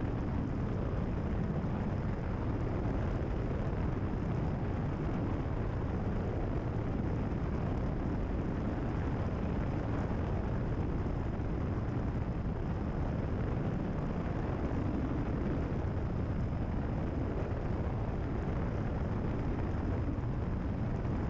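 Steady drone of a Cessna 172RG's four-cylinder Lycoming O-360 engine and propeller in cruise flight, heard from inside the cabin.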